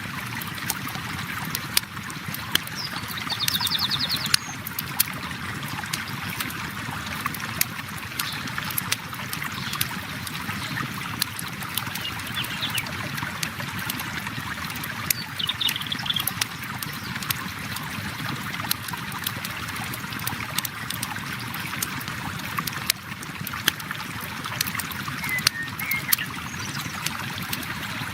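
River water flowing steadily, mixed with a campfire crackling: frequent sharp pops and snaps over the rushing water.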